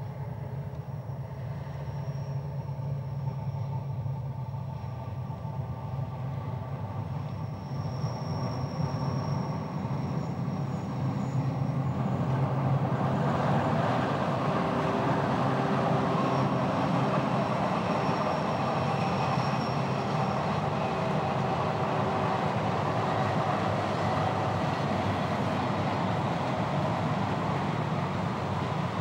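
Narrow-gauge train running on the track, hauled by an electric locomotive. It grows louder from about twelve seconds in as it comes closer, with a few faint steady whining tones over the running noise.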